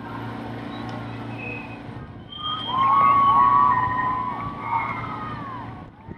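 Steady hum of a launch's motor, with a burst of loud, overlapping high cries that glide up and down in pitch starting a couple of seconds in and fading near the end.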